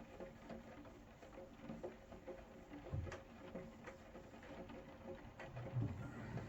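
Rain pattering, with scattered separate drips and two louder low thumps, one about halfway through and one near the end.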